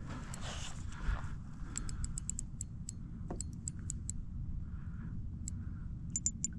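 Steady wind and water rumble outdoors on the water, with scattered sharp, light ticks from about two seconds in.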